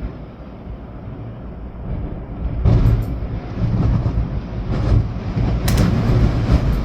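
Storm wind gusting through trees, with rain, rumbling low and heavy; a stronger gust builds about two and a half seconds in and stays strong, with a few short sharp cracks among it.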